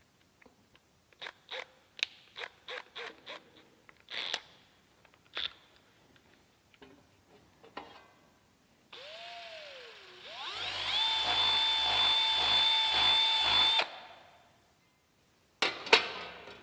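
Several sharp clicks and knocks of tools and parts being handled. Then a power drill spins up and runs at a steady whine for about three seconds before stopping suddenly.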